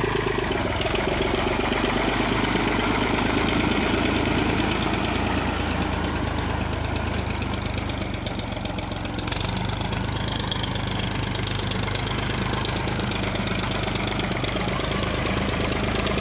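Old Escort 355 tractor's diesel engine running steadily.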